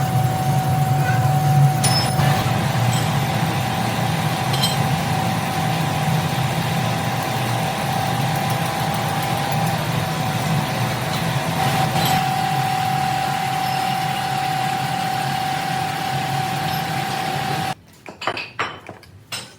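Factory metalworking machinery running steadily, a dense mechanical noise with a constant whine and a low hum, with a few clicks. It cuts off suddenly near the end, leaving light metallic clinks.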